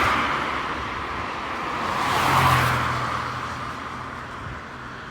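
Road vehicles passing: one fades away at the start, then a second swells to a peak about two and a half seconds in, with a low engine hum under its tyre noise, and fades.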